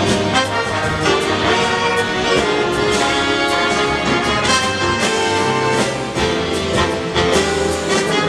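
A big band playing jazz, with brass sections (trumpets and trombones) over drums keeping a steady beat.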